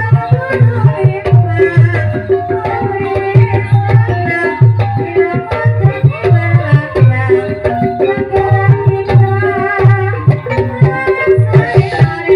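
Banyumasan gending ebeg played by a gamelan ensemble: a rhythmic beat on kendang hand drums under a stepping melody on tuned percussion.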